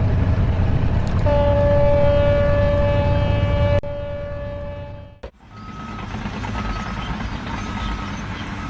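Heavy machinery rumbling with a long, steady horn blast lasting about four seconds. It cuts off abruptly, and an engine runs on with a reversing alarm beeping about once a second.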